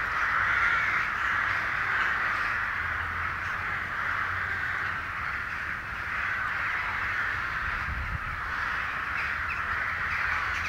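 A large flock of crows cawing, many calls overlapping into a continuous din.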